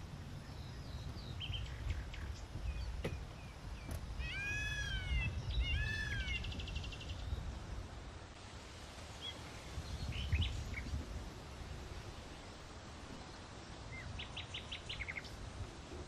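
Birds calling over a low steady rumble: scattered chirps, two arching calls about a third of the way in followed by a quick trill, and a rapid run of short high notes near the end.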